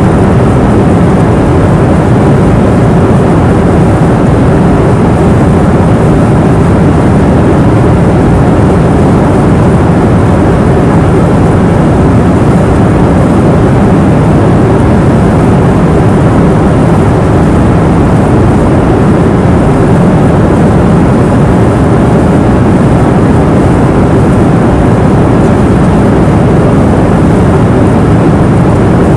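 Steady airliner cabin noise in flight: a constant low rushing drone of engines and airflow, with a faint steady hum.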